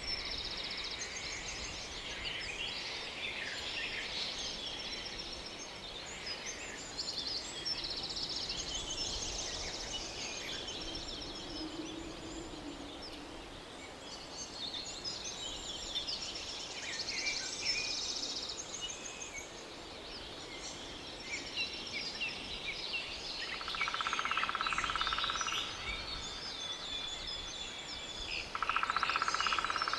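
Birds chirping and singing, many short calls and trills overlapping. Near the end come two steady buzzing trills, lower in pitch and a few seconds each.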